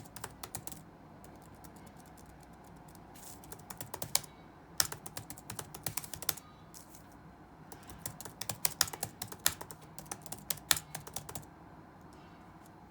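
Typing on a computer keyboard: three bursts of rapid keystrokes with gaps of a second or two between them, stopping about a second and a half before the end, over a faint steady room hum.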